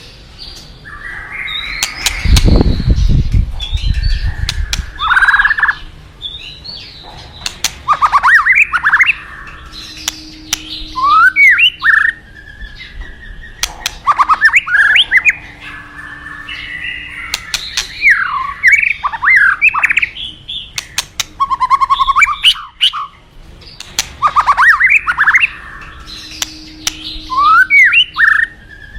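White-rumped shama singing: varied phrases of rising and falling whistled notes mixed with sharp clicks, repeating every few seconds over a steady rush of flowing river water. A deep low rumble swells up about two seconds in and fades out.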